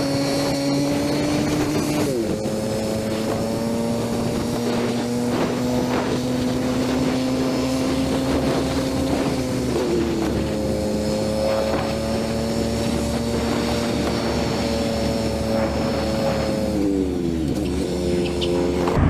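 Small motorbike engine running under way. Its steady note steps down in pitch twice and falls away near the end.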